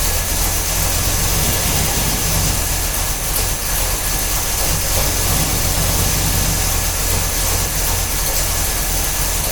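1969 Buick 430 V8 with dual Quadrajet four-barrel carburetors idling steadily as it warms up after a cold start.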